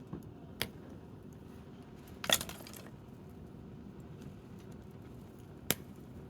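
Wood campfire with a low steady background and a few sharp pops and crackles: one near the start, a short cluster of crackles in the middle (the loudest), and a single sharp crack near the end.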